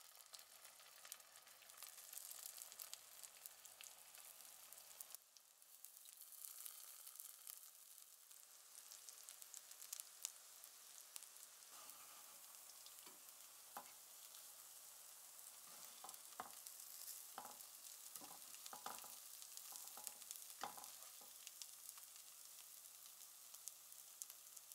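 Lentil patties frying in a little oil in a nonstick pan: a quiet, steady crackling sizzle. In the second half a spatula knocks and scrapes against the pan several times as the patties are turned.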